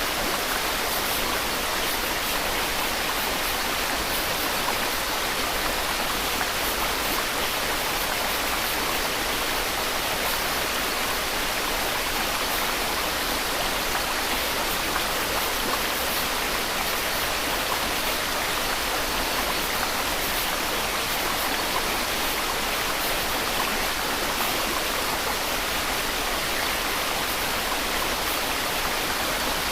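Steady white noise: an even, unbroken hiss with no change in level or character.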